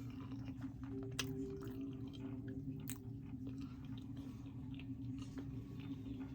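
A person chewing a mouthful of food close to the microphone, soft and wet, with a couple of sharp clicks.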